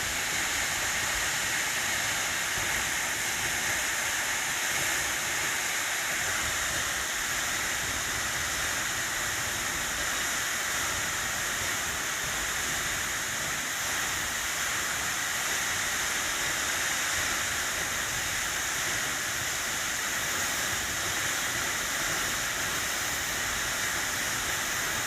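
Steady rush of a waterfall: even, continuous falling-water noise that does not change.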